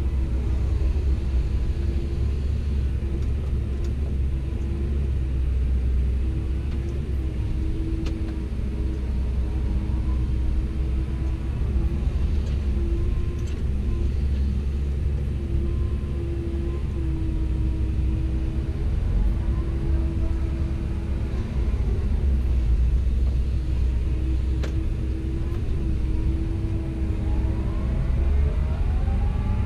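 Komatsu PC170LC-10 excavator's diesel engine running steadily with a deep rumble and a held tone that wavers slightly as the hydraulics work. A faint whine rises and falls now and then, most clearly near the end, and a few light knocks come through.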